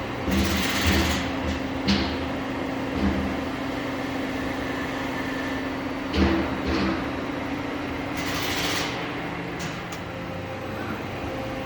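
Steady machine hum from a CNC lathe, with a few low knocks and two short bursts of hissing, one about half a second in and one about eight seconds in.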